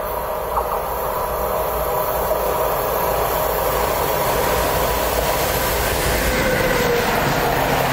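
ÖBB electric locomotive hauling a freight train, approaching and passing close by, its rumble and wheel-on-rail noise growing gradually louder.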